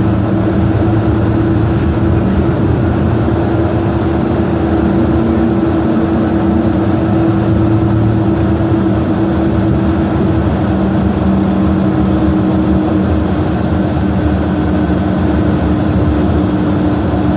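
Steady engine hum and road noise heard from inside a moving vehicle, with a constant low drone.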